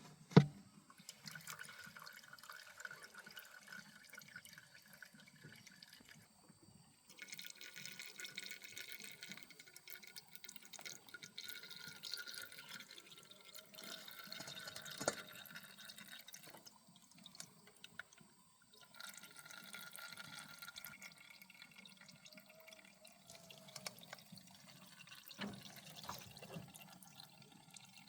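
Liquid running and splashing in three spells of several seconds each, typical of parts being washed or fluid being poured during an engine teardown. A sharp knock comes at the start and another about 15 seconds in.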